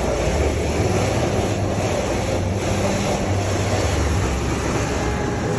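Automatic car wash equipment running, heard from inside the car: a steady rush of spraying water and machinery over a low hum.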